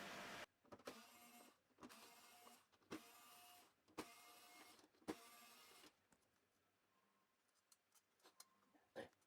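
A small electric motor running in about five short bursts of roughly a second each, each starting with a click. It is followed by faint scattered clicks and one sharper click near the end.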